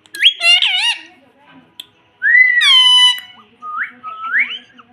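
Pet parrot giving whistled calls: a quick wavering pair in the first second, one longer call that rises then falls about two seconds in, and two short rising chirps near the end.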